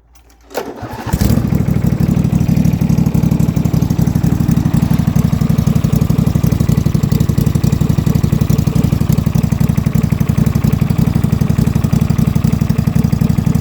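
Yard Pro YT-16 riding mower engine cold-started on full choke: a brief crank, then it catches about a second in and runs steadily. It runs with a vacuum leak between the new carburetor and the intake, which the owner traces to loose carburetor bolts.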